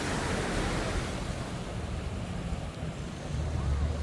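Surf washing onto the beach: a rush of noise that swells at the start and fades over about two seconds. A low, steady engine or traffic rumble underneath grows stronger in the second half.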